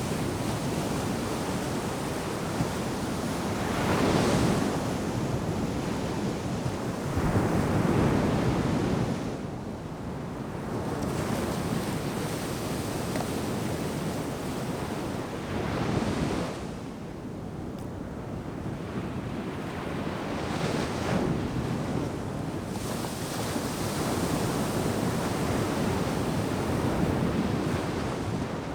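Ocean surf breaking on a sandy beach, the wash swelling and fading several times, with the crests around 4, 8 and 16 seconds in. Wind buffets the microphone throughout.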